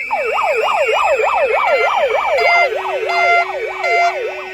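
Electronic siren yelping in quick rising and falling sweeps, about three a second, with steady alternating siren tones joining about halfway in.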